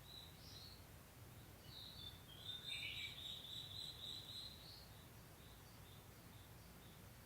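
A bird singing faintly: one warbling, high phrase about two seconds in, lasting a couple of seconds, followed by a few short chirps, over a low steady outdoor rumble.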